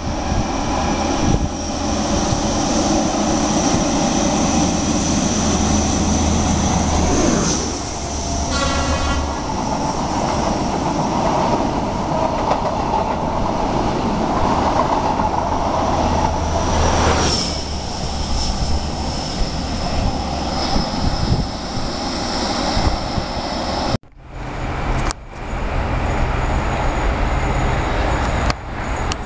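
High Speed Train with Class 43 diesel power cars passing through at speed: a steady high whine as each power car goes by, and the coaches rushing and clattering over the rails in between. A short horn note sounds about nine seconds in. After a sudden cut near the end, a Class 66 diesel freight locomotive is heard approaching, its engine running with a low drone.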